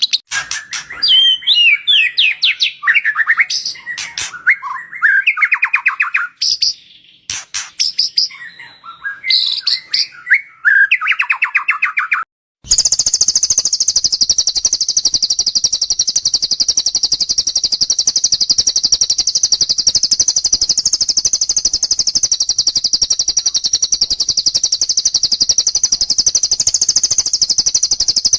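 Recorded bird song: varied, quick whistled phrases that sweep up and down. After a brief cut about 12 seconds in comes one long, very fast, high-pitched chattering trill without a break, typical of a lovebird's long trill ('tembakan panjang').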